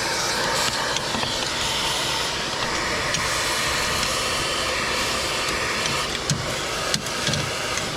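Shop vacuum running steadily with an even rushing hiss, with a couple of faint clicks in the second half.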